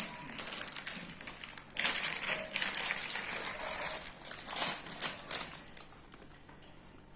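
Rustling and crackling from snacks and their packaging being handled, with some light clicks, loudest about two to four seconds in and dying away toward the end.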